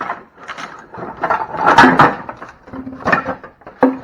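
Irregular clattering and rattling of parts being handled and rummaged through, loudest about halfway, while searching for a junk carburetor to take a spare idle screw from.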